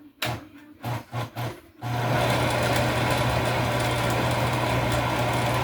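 Electric mixer running steadily, mixing cake batter of creamed butter and blended fruit, after a few short pulses.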